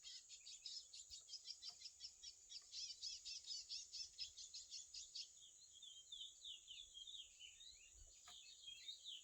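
Curió (chestnut-bellied seed finch) singing faintly: a fast, even series of short high chirps, about eight a second, that changes about five seconds in to a run of quicker sliding notes, over a steady high-pitched hiss.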